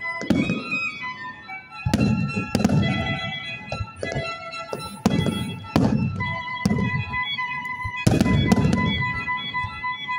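Aerial firework shells bursting one after another, a sharp bang roughly every second with a low rumbling tail after each. Music with long sustained notes plays underneath.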